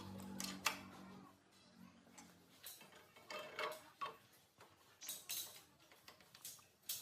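A motor's steady hum dies away about a second in, followed by scattered light metallic clicks and taps of small metal parts or tools being handled.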